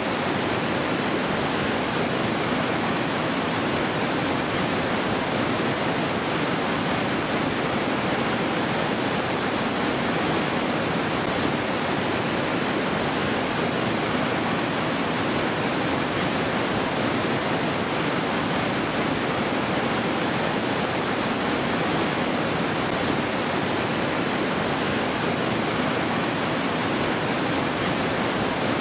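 Mountain river rushing over rocks: a steady, loud roar of whitewater that does not change.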